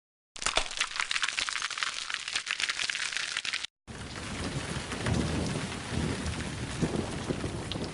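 Rain sound effect in two spliced clips: a dense patter of raindrops that cuts off abruptly after about three seconds, then, after a brief gap, heavy rain with a low rumble of thunder underneath.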